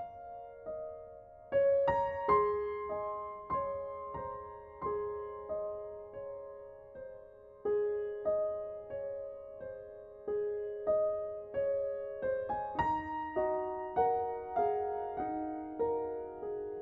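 Slow, gentle solo piano music: single notes and soft chords struck one after another and left to fade, with a louder chord about a second and a half in and another near thirteen seconds.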